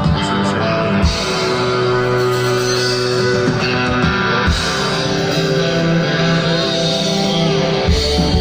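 Live band playing amplified rock-style music led by guitar, with sustained chords over a steady bass.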